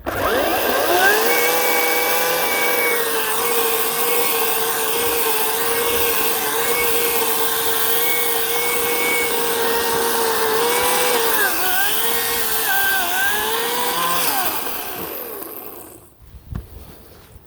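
Ryobi 18-inch battery electric chainsaw spinning up at once and running with a steady whine, then dipping in pitch several times as the chain bites into birch wood, and winding down to a stop about fifteen seconds in.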